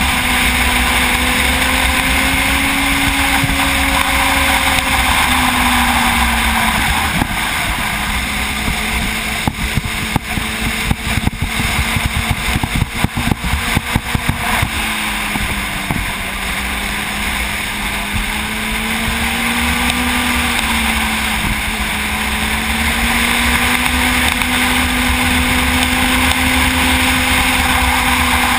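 Sport motorcycle engine heard from on board while cruising, its note wavering and dipping lower about halfway through, then climbing again, over steady wind and road noise. A stretch of sharp crackling runs for about five seconds in the middle.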